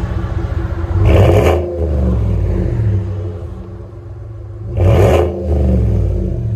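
2018 Chevy Tahoe RST's 6.2-litre V8 exhaust, running through Black Widow Race Venom mufflers with the resonator deleted. It idles and is blipped twice, about four seconds apart, each rev climbing sharply and dropping back to idle.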